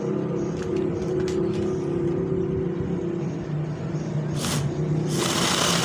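Small DC electric motor running with a steady whine, its pitch dropping about three and a half seconds in, as if under more load. Two short bursts of hiss come near the end.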